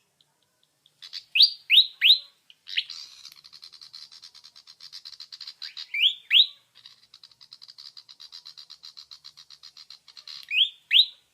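Songbird singing: loud rising whistled notes in quick groups of three, then two, then two, alternating with long, rapid chattering trills.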